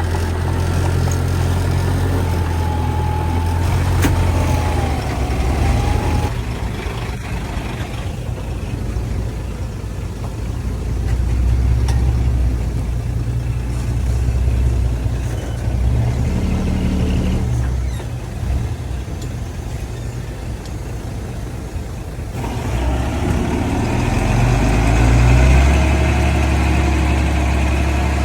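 Heavy diesel engines of a bulldozer and dump trucks at work, the level rising and falling. The sound changes abruptly about six seconds in and again about three-quarters of the way through.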